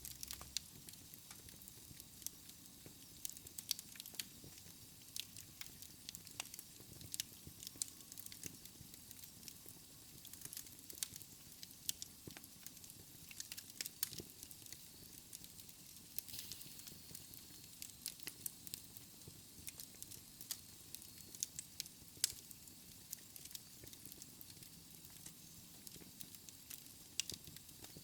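Wood fire in a fireplace crackling: irregular sharp pops and snaps over a steady hiss.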